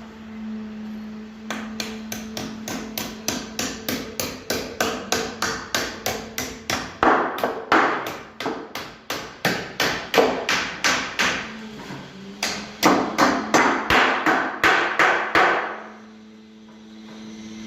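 A hammer striking in a long, rapid series, about two to three blows a second, with a short pause partway through, as in carpentry work. A steady low hum runs underneath.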